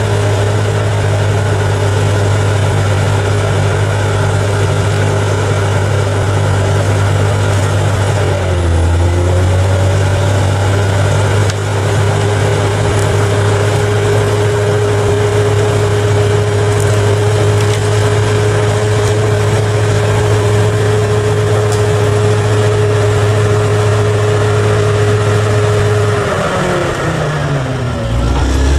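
Bulldozer's heavy diesel engine running steadily under work, with a steady whine over the engine note. The pitch sags briefly about a third of the way in and again near the end, as the engine takes on load.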